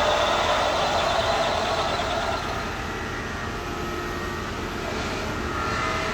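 CNC machine running, boring lifter bores in a big-block engine block: a steady mechanical machining noise that eases off about two and a half seconds in.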